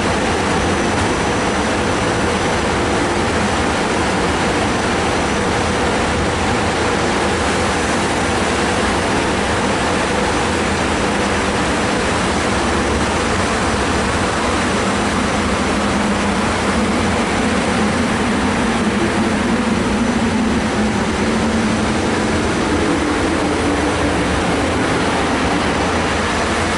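SEPTA Silverliner IV electric multiple-unit train running through the station: a loud, steady rumble of wheels on rail, with a low motor hum that strengthens and rises slightly in the second half.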